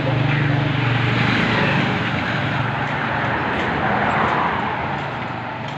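A motor vehicle engine running with a steady low hum and broad mechanical noise, easing off and fading toward the end.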